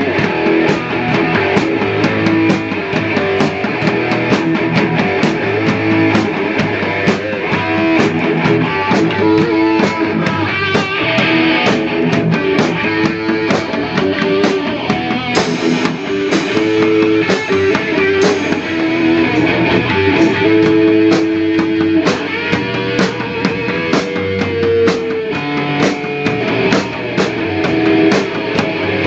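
Rock band jamming improvised: guitar playing over a drum kit and bass guitar, with a steady beat throughout.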